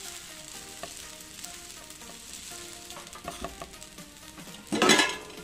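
Sabudana khichdi sizzling in a nonstick pan while it is stirred with a silicone spatula, with a few light scrapes and then one short, loud clatter of cookware near the end.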